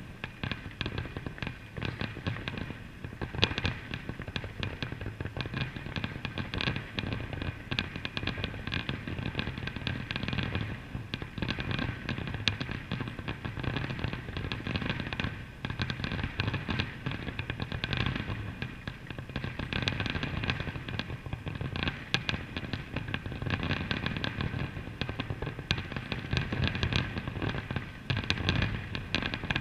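Aerial fireworks display: a continuous barrage of shell bursts, many bangs following closely and overlapping with no pauses.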